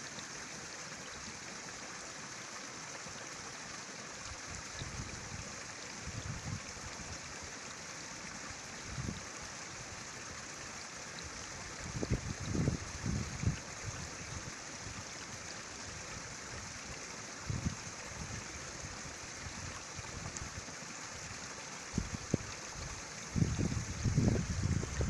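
Small stream running steadily in an even rushing hiss, with wind buffeting the microphone in low rumbling gusts now and then, most strongly around halfway and near the end.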